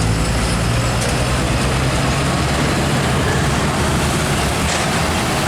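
Heavy trailer truck's diesel engine and tyres passing close by: a loud low engine drone over road noise. The drone fades about three seconds in while the road noise carries on.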